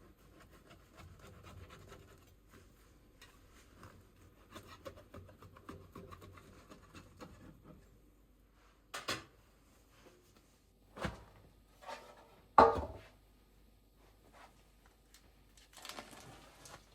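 Soft scraping and rustling of things being handled, followed by a handful of separate knocks and clatters, the loudest about two-thirds of the way through.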